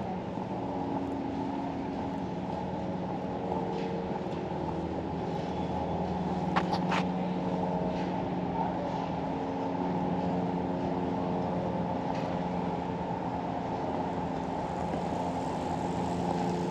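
An engine running steadily: a low hum with several steady tones that shift slightly in pitch, and a few faint clicks near the middle.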